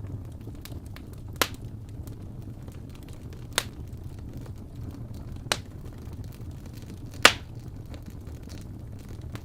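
Wood fire burning in a fireplace: a steady low rumble of the flames with small crackles, and four sharp pops of the burning logs, the loudest near the end.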